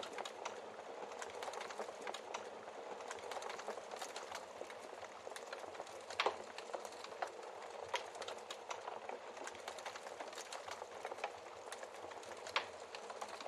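Wood fire crackling steadily in a fireplace, with many small ticks and a few louder pops, the loudest about six seconds in and near the end.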